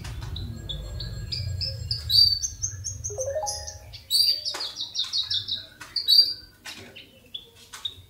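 Horsfield's bush lark (branjangan) singing: a long run of short, clear chirping notes and quick trills that step up and down in pitch, some very high.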